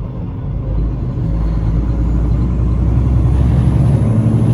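Semi truck's diesel engine running with a steady low rumble, growing a little louder toward the end.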